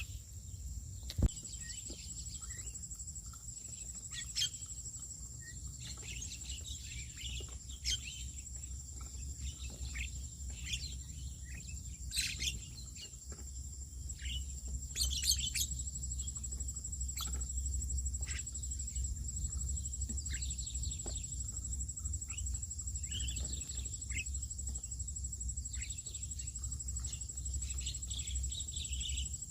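Birds chirping with short, scattered calls, over a steady high-pitched hum and a low rumble. A single sharp click sounds about a second in.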